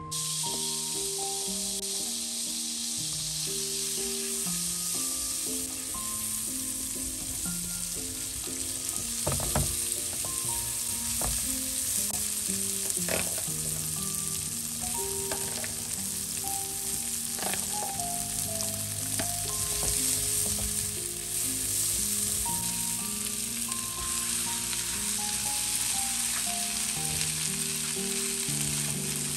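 Sausage slices, shallots, garlic and mixed vegetables sizzling steadily in hot oil in a stone-coated wok while being stirred with a silicone spatula, with a few sharp knocks of the spatula against the pan. Background music plays underneath.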